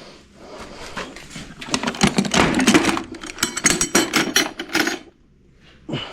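Metal hand tools clinking and rattling as someone rummages through a toolbox, a dense run of clatter for about three seconds that stops abruptly.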